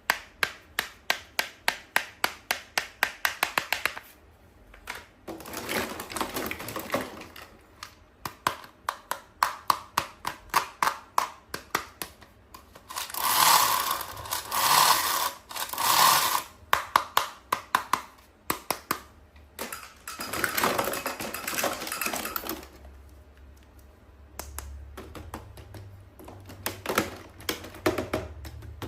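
Close-up unboxing sounds of a toy and its packaging being handled: runs of quick sharp clicks, about four or five a second, alternating with stretches of noisy rustling. The loudest part is three rustling bursts about halfway through, and the sound turns softer near the end.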